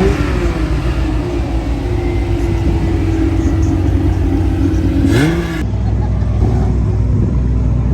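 A car engine revs up and holds at a steady raised pitch for about five seconds, with a quick rising rev near the end. Then, after an abrupt change, an engine runs at a low steady idle.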